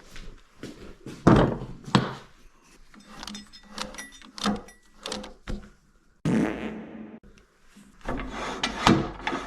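Knocks and clunks of a workpiece being fitted and tightened into a lathe chuck. The loudest knock comes about a second in, with a run of lighter taps and rattles after it.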